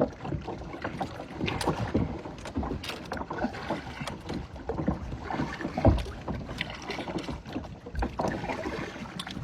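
Kayak paddles dipping and splashing in the water in uneven strokes, with a low thump about six seconds in.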